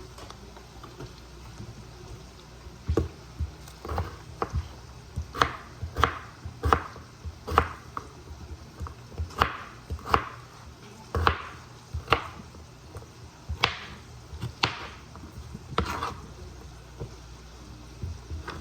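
Kitchen knife chopping a potato into cubes, irregular sharp strokes about one or two a second, starting a few seconds in.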